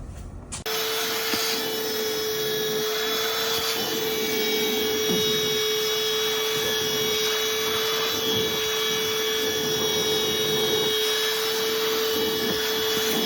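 A vacuum cleaner running steadily while cleaning out a truck's interior, a constant whine over a rushing hiss. It starts suddenly about a second in.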